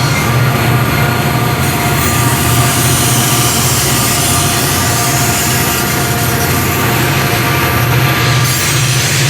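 Diesel-hauled freight train running on the DQE line: a steady, loud low engine drone with rail and wheel noise.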